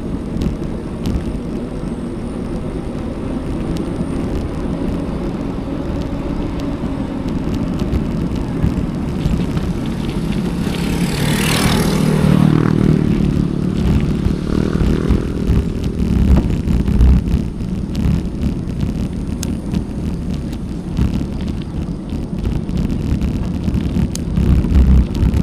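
Steady rumble of wind and tyre noise from a bicycle ride, heard from an action camera on the rider. About eleven seconds in, a motor vehicle passes close by, its sound swelling and fading over a few seconds.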